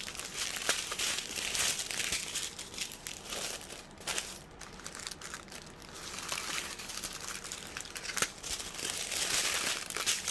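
Small plastic bags of diamond-painting drills crinkling and rustling as they are handled, with many small crackles throughout.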